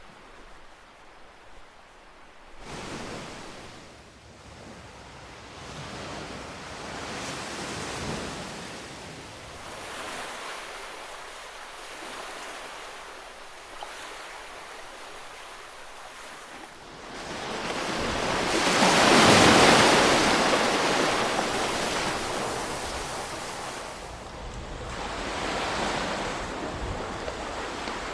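Ocean waves washing onto the shore, a hiss of surf that swells and fades in slow surges every few seconds. It starts quiet, and the largest wave comes about two-thirds of the way through.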